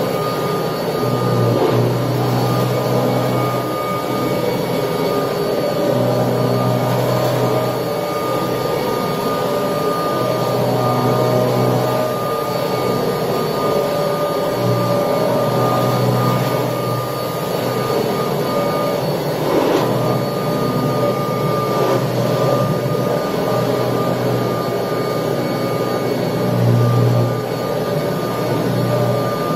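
1979 Kirby Tradition upright vacuum cleaner running steadily while vacuuming, with a constant high whine over its motor noise. A lower hum swells and fades every few seconds.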